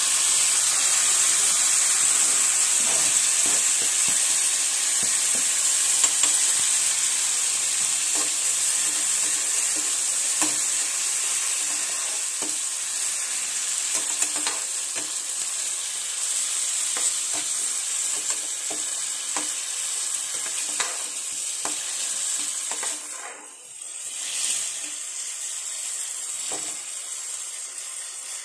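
Chopped tomatoes tipped into hot oil in a frying pan sizzle loudly as they hit it, then keep sizzling while a slotted metal spoon stirs them, with small scrapes and clicks against the pan. The sizzle is loudest at the start and slowly eases as the tomatoes soften in the tadka (spiced tempering oil).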